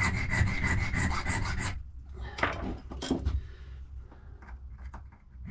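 A metal key blank being worked in rapid, even scraping strokes, about four or five a second, for under two seconds. A couple of separate knocks follow, then the sound dies down.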